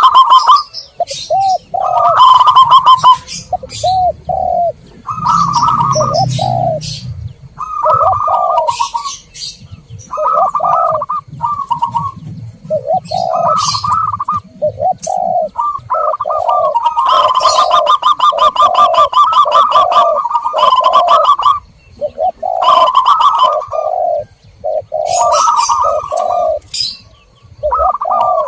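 Zebra doves and spotted doves cooing over and over in phrases. There is a long fast run of notes from about 17 to 21 seconds in. Short high chirps come in between, and the recording is played as a lure to call in wild doves.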